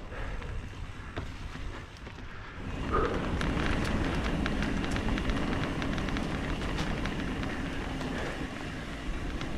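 Mountain bike tyres rolling over a dirt and gravel trail, a steady crackling hiss full of small clicks and rattles, with low wind rumble on the microphone; it grows louder about three seconds in.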